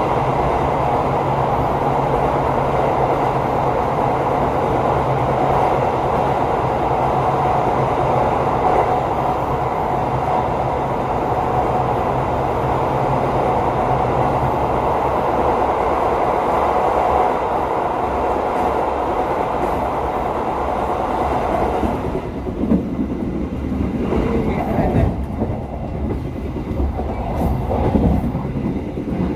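Passenger train running on the rails: a steady rumble and rush with a faint held whine. About 22 seconds in, the sound drops and turns uneven, with irregular louder knocks.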